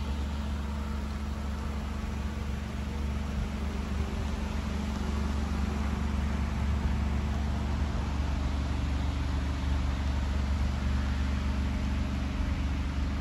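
The Alfa Romeo Stelvio Quadrifoglio's 2.9-litre twin-turbo V6 idling steadily: a low hum with a hiss over it, growing a little louder about halfway through.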